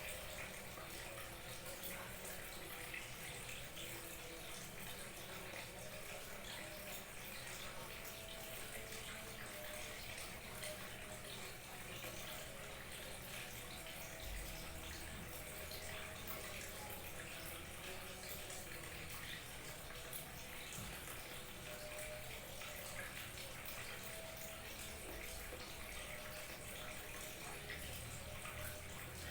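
Small waterfall trickling and splashing: a steady, even rush of falling water.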